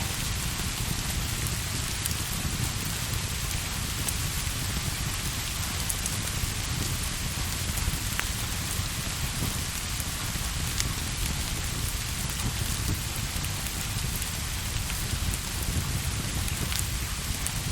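Steady rain falling, an even hiss with a low rumble underneath. A few faint pops sound here and there.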